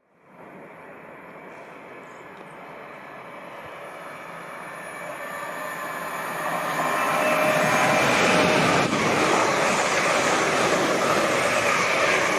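Train on the main line approaching and passing at speed: wheel-on-rail noise growing steadily louder for about seven seconds, then staying loud as it goes by.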